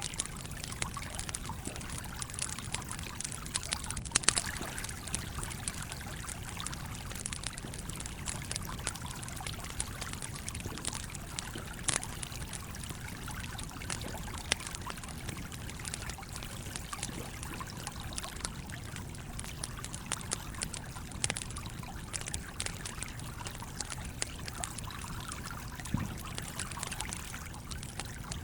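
Campfire crackling, with frequent sharp pops and a few louder ones, over the steady trickle and flow of a stream.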